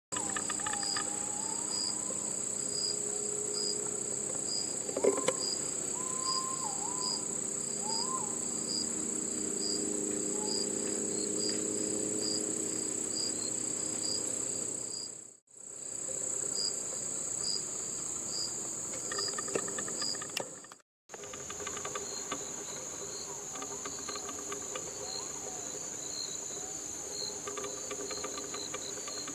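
A male white-bellied green pigeon singing deep, wavering 'aooh' coos that rise and fall in pitch, clearest in the first eight seconds and faint later. A loud steady insect chorus runs under it: a continuous high trill and a pulsing chirp about twice a second. The sound cuts out briefly twice.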